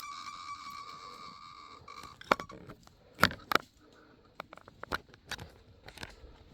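A steady whistling tone that stops about two seconds in, then footsteps snapping and crunching on dry sticks and leaves, with about half a dozen sharp cracks.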